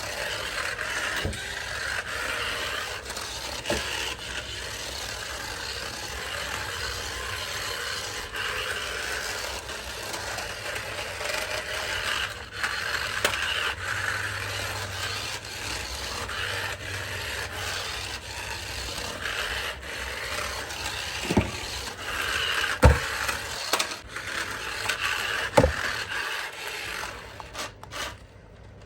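Continuous rubbing and scraping of objects being handled, with three sharp knocks near the end.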